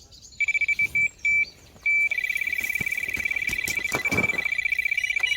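Carp bite alarm beeping: a few separate beeps, then from about two seconds in a continuous, very fast run of beeps, the sound of a fish taking line on a run.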